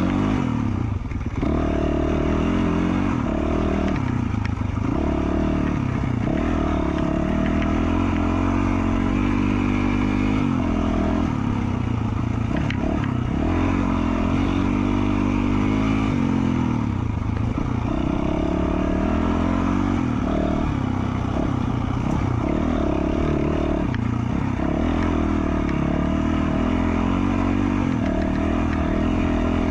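2020 Yamaha YZ450F single-cylinder four-stroke dirt bike engine with an FMF Q4 slip-on exhaust, ridden hard on a trail: the engine note climbs and drops again and again as the throttle is opened and rolled off, with some clatter from the bike.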